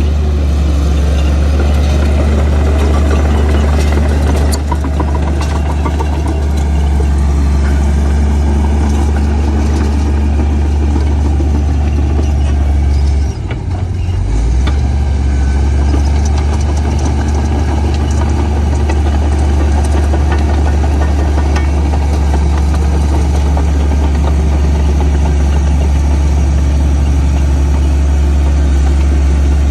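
Komatsu D58P bulldozer's diesel engine running steadily with a constant low drone, briefly dipping about halfway through.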